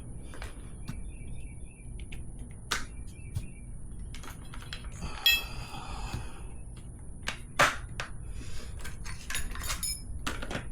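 Metal hand tools clinking and knocking against each other and a motorcycle wheel, in scattered sharp clicks with a brief ringing clank about five seconds in.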